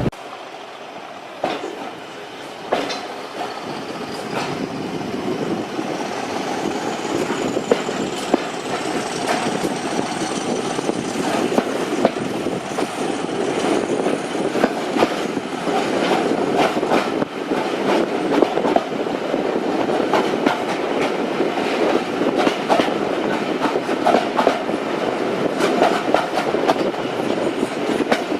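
Diesel-hauled train on the move, its wheels clicking and clattering over the rail joints, the sound slowly growing louder. A faint high whine rises in pitch through the first half.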